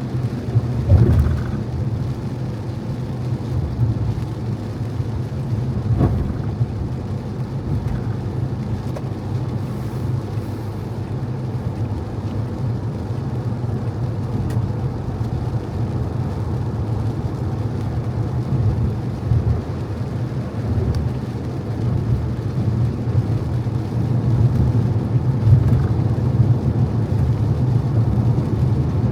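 Car driving on wet road: a steady low rumble of engine and road noise with the hiss of tyres on wet tarmac, and a couple of brief bumps, about a second in and again around six seconds.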